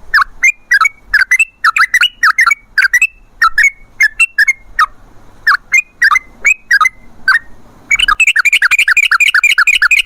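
Yellow-vented bulbul calling with loud, sharp chirps at an uneven pace, then breaking into a fast, even rolling run of notes about eight seconds in.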